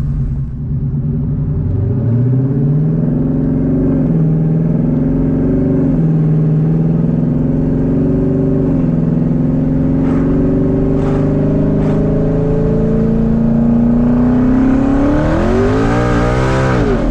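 Twin-turbo Mustang engine accelerating hard through several gear changes: the engine note climbs and drops back at each shift, about every two seconds. Then comes one long pull that rises steeply to high revs with a growing hiss, falling away sharply at the very end.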